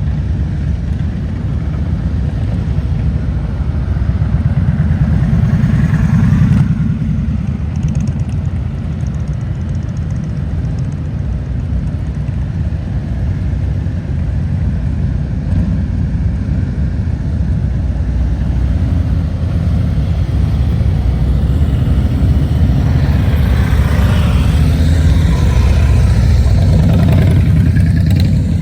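Motorcycle engines running in a low, steady rumble, swelling louder about a quarter of the way in and again near the end as bikes pass close by.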